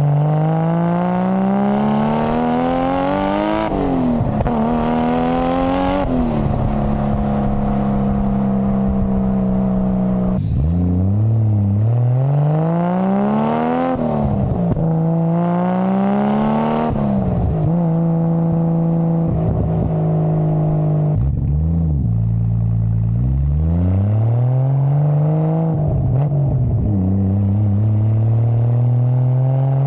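Nissan Skyline GT-R (BCNR33) RB26DETT twin-turbo straight-six and exhaust under way: revs climb steadily and drop sharply several times as it shifts up through the gears, with stretches of steady engine pitch when cruising in between.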